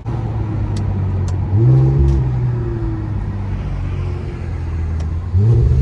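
Straight-piped Infiniti Q50 exhaust drone under way, rising twice as the throttle is pressed: once about a second and a half in, holding before easing off, and again near the end.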